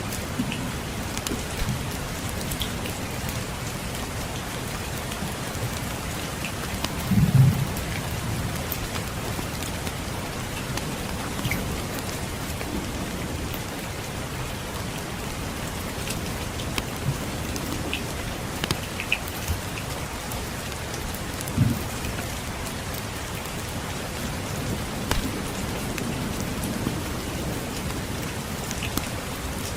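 Steady rain falling, with scattered small crackles from a wood fire. Two brief low thumps, about seven seconds in and again around twenty-two seconds.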